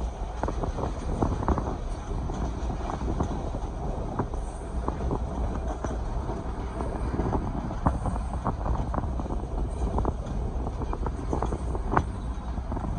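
Passenger train running along the track: a steady low rumble and rushing air, with irregular clicks and knocks from the wheels and carriages.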